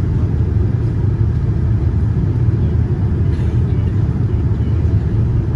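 Steady low rumble inside the cabin of a Boeing 787-9 airliner, an even noise with no distinct tones.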